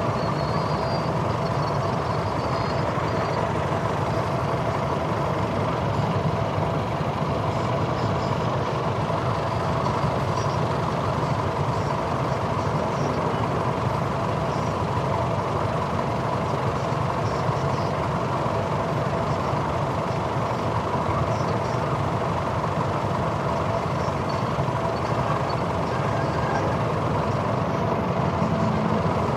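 Motorcycle riding along a highway: a steady mix of engine, tyre and wind noise that holds at one level.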